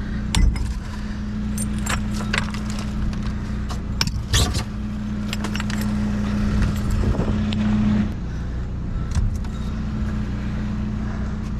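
Small pieces of scrap steel clinking and jangling in irregular clicks as they are gathered up with a magnetic pickup stick. A vehicle engine idles steadily underneath.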